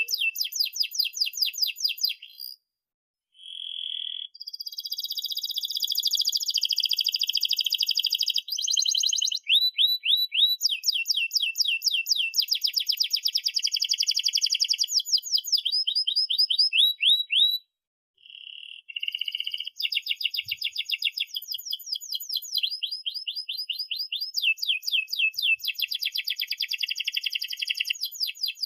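Domestic canary singing a long, continuous song of fast trills and rolls: runs of rapidly repeated rising notes alternating with buzzier rolled phrases. It breaks off briefly twice, about two and a half seconds in and again near the eighteen-second mark.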